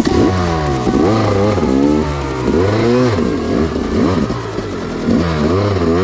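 Yamaha YZ250X two-stroke single-cylinder engine revving up and falling back over and over, as the throttle is worked while riding.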